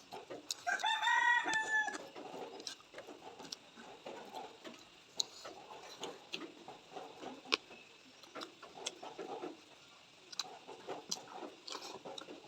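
A rooster crows once, a single rising-then-held call about a second in. It is heard over close-miked chewing and mouth sounds of eating, with soft irregular smacks and scattered clicks.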